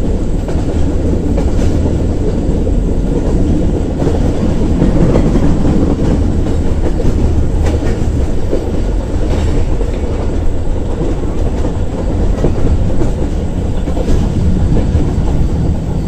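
Pakistan Railways passenger train running at speed, heard from beside an open coach window: a loud, steady rumble of wheels on the track with a few sharp clacks scattered through it.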